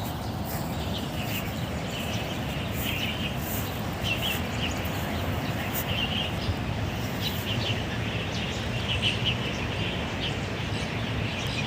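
Several birds chirping in short repeated bursts from tree cover, over a steady low background hum.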